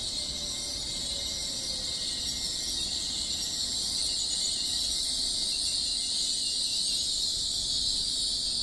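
A Hull Trains Class 802 bi-mode train running slowly past the platform, heard as a steady high-pitched hiss or squeal with a faint falling tone in the first couple of seconds.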